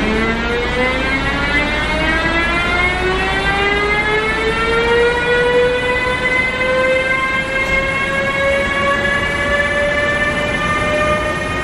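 Siemens Vectron electric locomotive's traction converters whining as it accelerates, a chord of many tones rising slowly and smoothly in pitch, over a steady rumble of the train on the rails.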